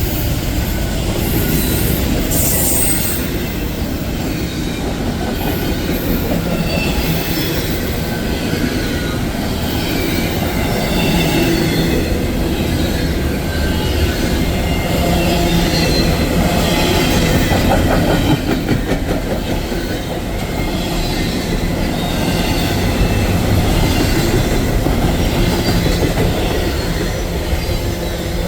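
Railroad cars rolling past in a steady rumble, with wheel squeal in thin, wavering high tones throughout.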